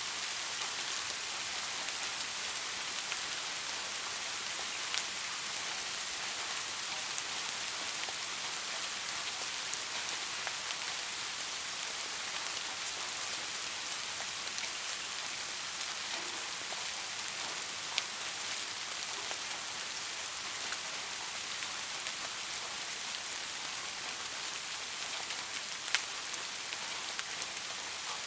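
Steady rain falling, a dense even hiss with occasional louder individual drops ticking, the most distinct about eighteen seconds in and near the end.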